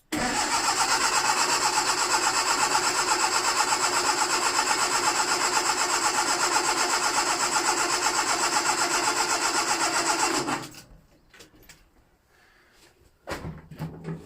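Ford Anglia's starter motor cranking the engine for about ten seconds with an even pulsing beat, without it firing, then stopping abruptly. The owner suspects the fuel has drained back to the petrol tank. A few short knocks follow near the end.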